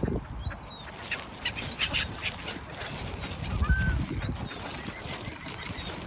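Waterbirds calling: a scatter of short, high calls and one lower call about halfway through, over a low rumble.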